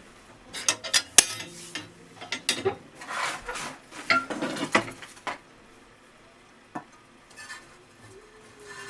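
Kitchen dishes and utensils clinking and scraping in a busy run of clicks for about five seconds, then quieter with a single click and a few light knocks.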